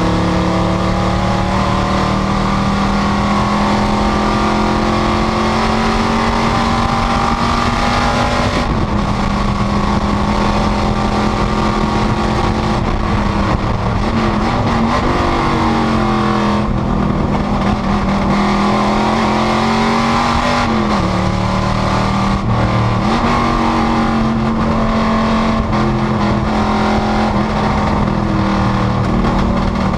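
Panoz GTS race car's engine running hard at high revs on track, its note mostly steady with brief drops and recoveries about 9 s, 14 to 16 s, 21 s and 23 s in, as the throttle lifts or gears change.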